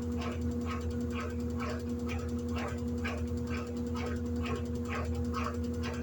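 Electrolux 14 kg LED14 top-load washing machine running with a steady motor hum and a short, regular squeak-like sound repeating about twice a second.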